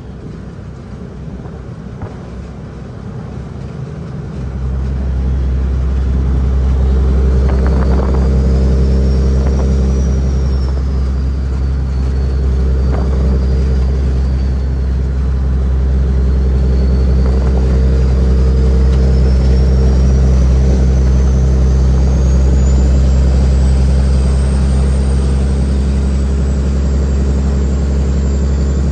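Cat 6NZ inline-six diesel of a Kenworth W900L tractor working under a heavy load, running at a steady low drone that gets clearly louder about four seconds in as power comes on. A faint high whistle rises and falls above the engine.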